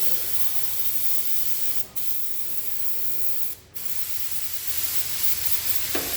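A steady spraying hiss from a pressurised nozzle, cut off briefly twice, about two seconds in and again near the four-second mark.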